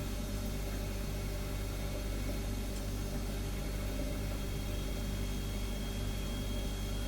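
Refrigerator running with a steady low hum and an even hiss. A faint high whine comes in about six seconds in.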